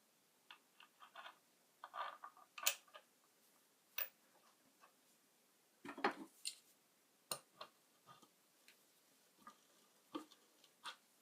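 Scattered light clicks and taps at irregular intervals, small hard objects being handled and set down, with a few sharper knocks among them.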